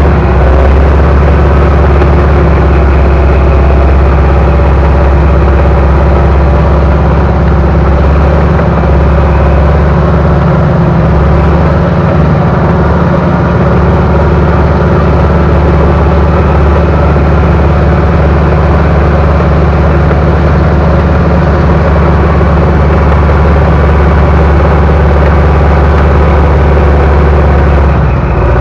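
Bulldozer's diesel engine running loud and steady close to the microphone, with a deep, even drone.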